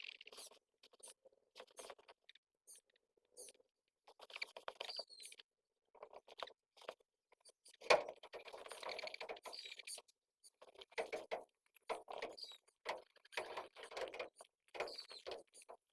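Baby pigeons (squabs) in the nest making short, irregular bursts of squeaking and scuffling, with a sharp knock about eight seconds in followed by a longer flurry of about two seconds.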